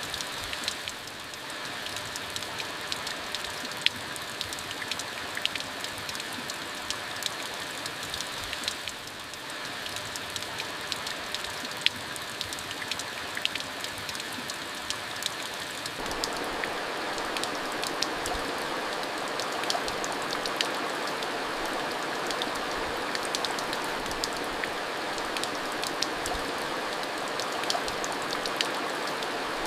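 Steady monsoon rain falling, with many sharp ticks of single drops striking a surface over the hiss. The rain grows louder about halfway through.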